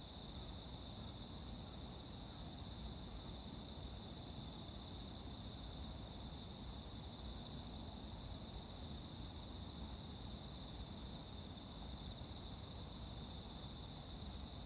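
Crickets calling continuously in a steady, unbroken high-pitched trill, over a low background rumble.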